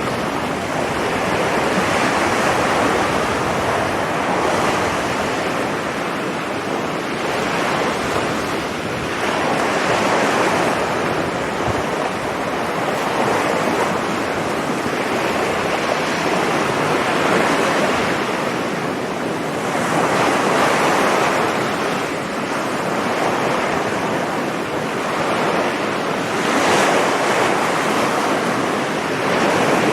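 Sea surf breaking on a beach: a continuous rush of water that swells with each incoming wave every few seconds and then eases.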